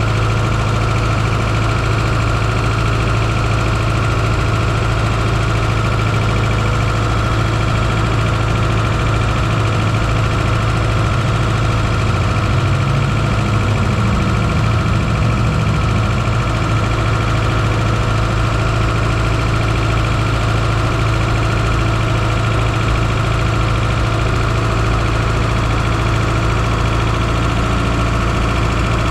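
Fiat Coupe 2.0 16V turbocharged four-cylinder engine idling steadily, heard from inside the engine bay, with a slight brief rise in revs about thirteen seconds in.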